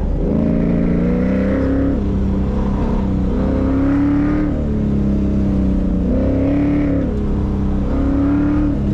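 Car engine heard from inside the car during an autocross run, revving hard. Its pitch climbs and drops back four times as the throttle goes on and off between corners.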